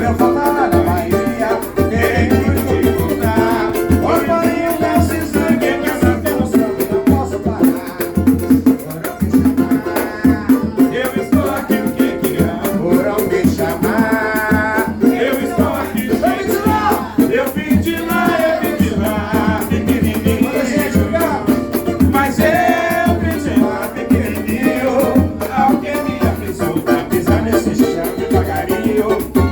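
Samba music: voices singing over a steady percussion beat with shakers.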